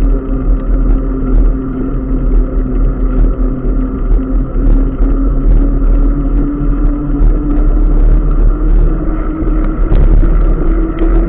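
Continuous motor drone over a heavy low rumble, its hum rising slowly and steadily in pitch as the vehicle gathers speed.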